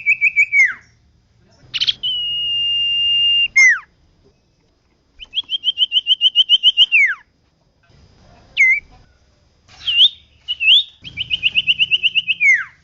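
Common iora singing loud whistled phrases. It gives rapid trills of even notes at about seven a second, a long steady whistle held for about a second and a half near the start, and phrases that end in a downward-sliding slur.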